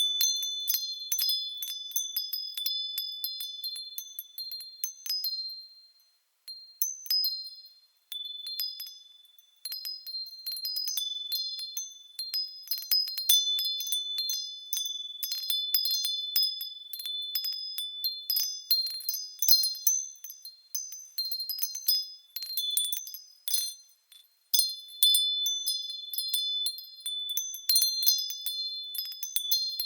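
Japanese wind bells (furin) ringing as the wind moves their clappers: irregular clusters of clear, high tones that ring on, dying away a few times before the next strikes.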